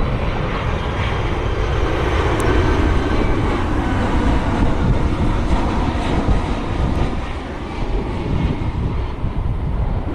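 Boeing 767 twin-jet airliner's engines running with a steady rumbling roar on approach.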